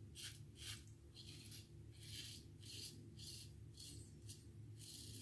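Faint short scraping strokes of a Feather Artist Club SS straight razor cutting lathered stubble on the neck against the grain, about nine strokes at roughly two a second, over a low steady hum.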